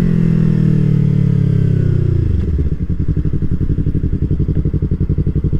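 2020 Yamaha R3's parallel-twin engine with a full aftermarket exhaust: its revs fall smoothly, and about two seconds in it settles into a steady, evenly pulsing idle.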